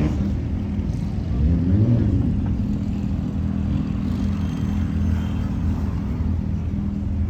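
A car engine running steadily at idle, with a brief rise in pitch and loudness about one and a half to two seconds in, like a short blip of the throttle.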